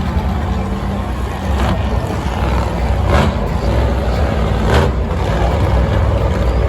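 Monster truck engine running loud and low, with three short sharp noises about one and a half, three and five seconds in.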